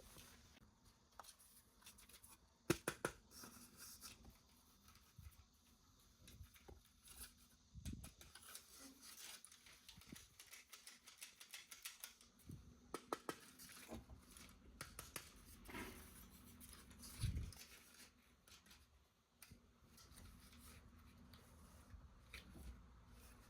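Faint, scattered clicks, taps and rustles of toy packaging being handled and opened by hand, between near-silent stretches. The sharpest is a quick cluster of clicks about three seconds in, and there is a soft thump around two-thirds of the way through.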